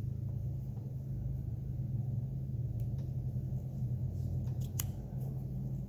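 Steady low hum filling the room, with a few faint small clicks about three seconds in and again near five seconds.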